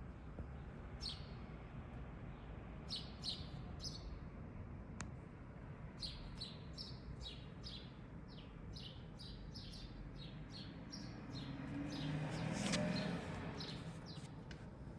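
Small birds chirping outdoors: short, high chirps, a few at first and then in a quick run of roughly two a second. A brief swell of low rumbling noise rises and fades near the end.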